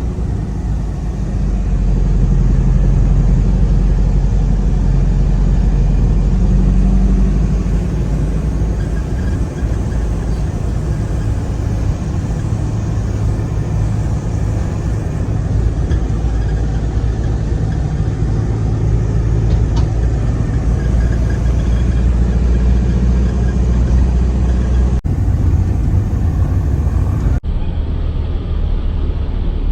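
Road vehicle running, a steady low rumble of engine and road noise. The sound breaks off and changes abruptly twice near the end.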